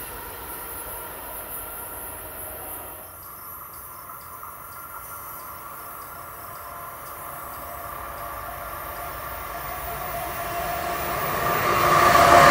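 Amtrak train led by an ACS-64 electric locomotive approaching on the rails, its rumble and rail noise growing steadily louder over the last few seconds as it draws near. Before that, a distant train's fading rumble, then a few seconds of quieter steady insect chirping.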